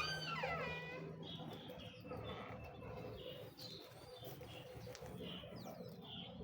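Budgerigars chirping in a steady run of short high calls, opening with one louder call that falls in pitch.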